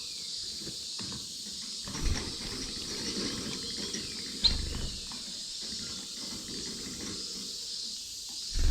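Cage finches (Gouldian finches, society finches, canaries) feeding in an aviary: short high chirps and calls with soft rustling. There are soft thumps about two and four and a half seconds in, and a louder thump near the end.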